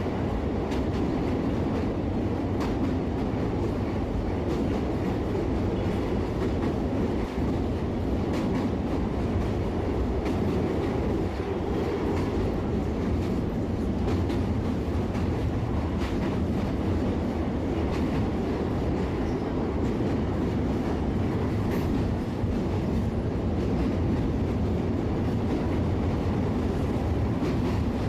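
Train running steadily on the rails, a continuous rumble with occasional faint clicks of the wheels over rail joints.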